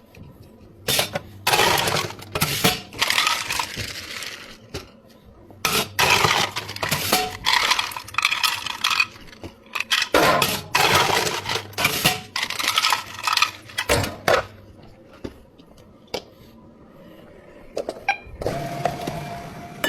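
Ice cubes rattling and clinking against a container in three long bursts, as when drinks are shaken or ice is scooped in a bubble tea shop. Near the end a steady machine hum starts.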